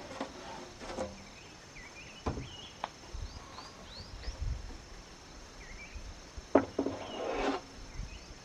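A few sharp knocks of wood being handled, over a steady high insect buzz and short bird chirps.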